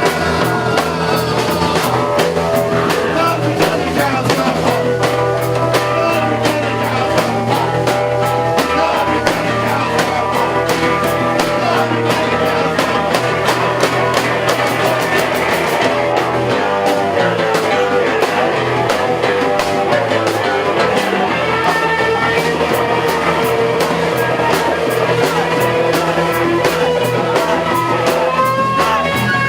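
Live rock band playing: electric guitar, bass and drum kit, with a steady beat and singing.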